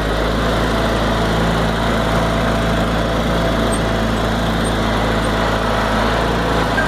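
Case 446 garden tractor engine running steadily at a constant speed with the snow blower fitted.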